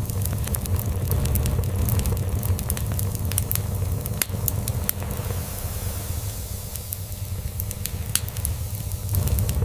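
Crackling log fire with sharp pops scattered throughout, over a steady low cat purr.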